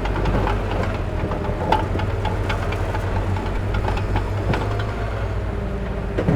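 Heavy diesel earthmoving machine running steadily, with scattered metallic clanks and knocks over the engine drone.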